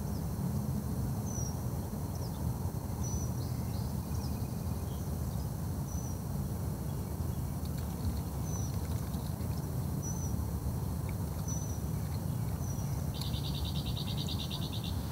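A bird chirping outdoors, short high calls repeating about every second and a half over a steady low rumble, with a fast buzzy trill near the end.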